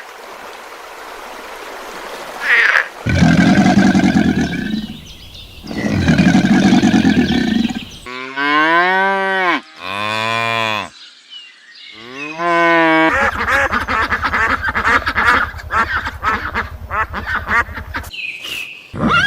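Cattle mooing several times, long calls that rise and fall in pitch, followed by several seconds of rapid, rattling calls from waterfowl.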